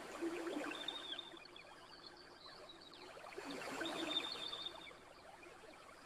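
Gentle ocean waves washing onto a shore over a steady hiss: one swell just after the start and another a little past halfway, each rising and falling over about a second and a half.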